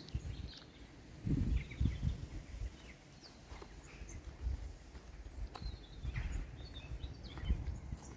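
Garden ambience: scattered short bird chirps over an uneven low rumble, strongest about a second into the sound.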